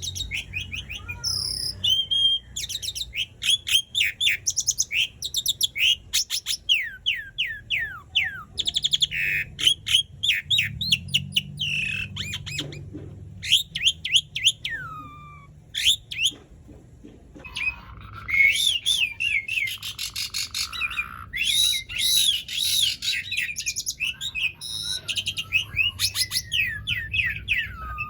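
Asian pied starling (jalak suren) in full song: a long, varied run of rapid high whistles, trills and falling notes, broken by short pauses about 13 and 16 seconds in.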